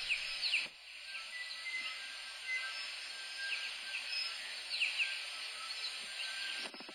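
Tui singing in native bush: short clear bell-like notes and quick sweeping whistles, scattered over a dense high hiss.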